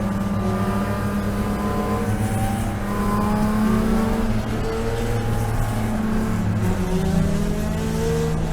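BMW E36 M3 race car's straight-six engine running hard at high revs, its note holding fairly steady and dropping in pitch about seven seconds in.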